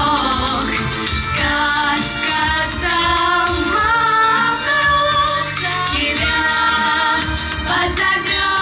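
Female voice singing a song with vibrato over instrumental accompaniment with bass and a steady beat.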